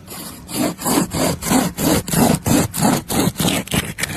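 Rhythmic rasping back-and-forth strokes, about three a second, starting about half a second in.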